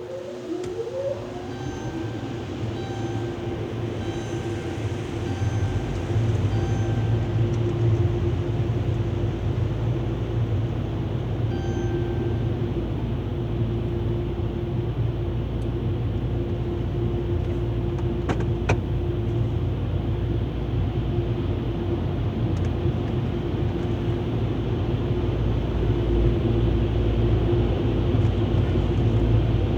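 Automatic car wash machinery starting up with a rising whine, then running steadily and loud with a hum and a constant tone. A repeating electronic beep sounds for a few seconds near the start.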